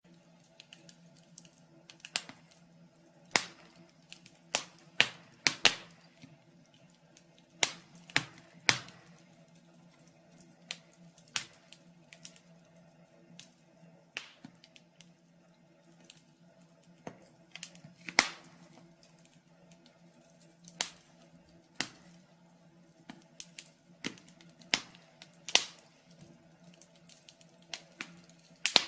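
Wood fire in a fireplace crackling, with irregular sharp pops and snaps of varying loudness over a faint steady hum.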